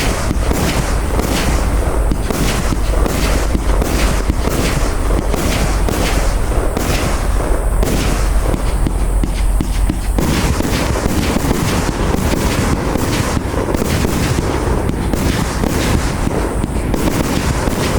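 A 30 mm compound fireworks cake firing shot after shot, about two to three sharp bangs a second, with bursts and crackle overlapping into a continuous rumble.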